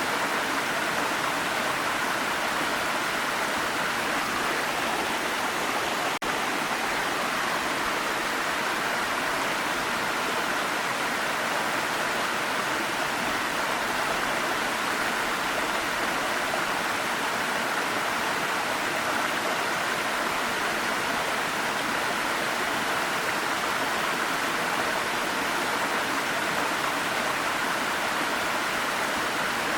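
Waterfall: a steady rush of falling water, even and unbroken apart from a momentary dropout about six seconds in.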